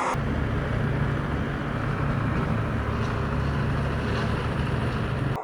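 A vehicle engine running steadily with a low rumble, set in by hard cuts at both ends.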